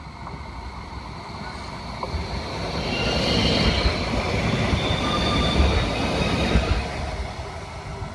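Tram pulling in, its rolling noise building over a few seconds, with high-pitched wheel squeal in the middle before it eases off.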